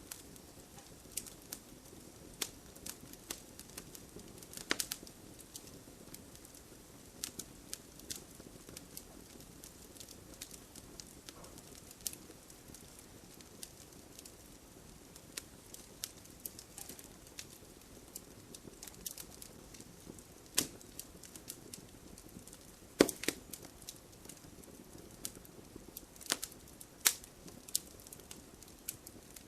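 Fireplace fire crackling, with irregular sharp pops and snaps over a soft steady flame sound; the loudest pop comes about 23 seconds in.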